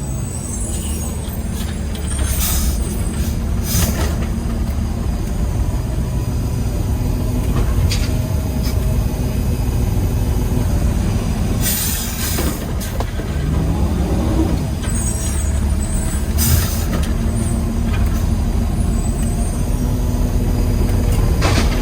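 Peterbilt 320 garbage truck's engine running, heard from inside the cab, with short hisses of air released several times. The engine pitch rises and falls once past the middle.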